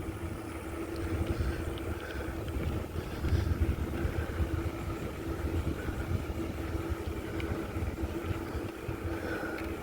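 Wind buffeting the microphone as the bicycle rides along, an uneven low rumble that swells and fades.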